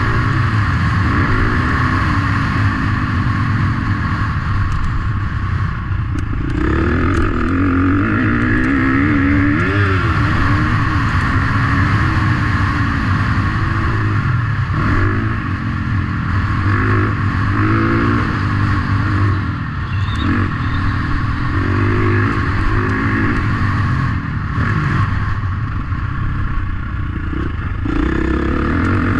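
Motocross motorcycle engines revving hard, their pitch rising and falling again and again as the bikes accelerate and shift.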